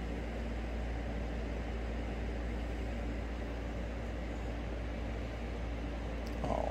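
Steady low hum and hiss of room background noise, like a fan or appliance running. A short squeak sounds near the end.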